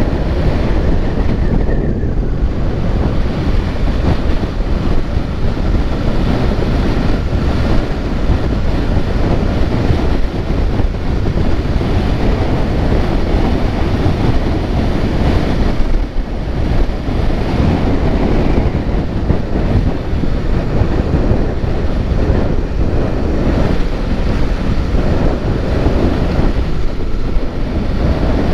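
Loud, steady wind noise rushing over the microphone while travelling, with the rumble of a moving vehicle underneath.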